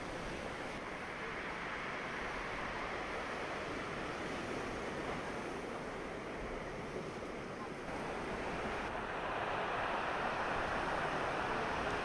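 Heavy surf from a stormy sea washing against the shore: a steady rush of breaking waves that grows louder near the end, with wind on the microphone.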